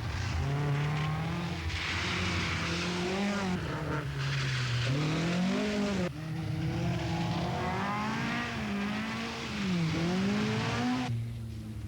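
Group B rally car engines revving hard on a stage, the pitch climbing and dropping again and again through gear changes and lifts. The sound cuts off abruptly and changes several times.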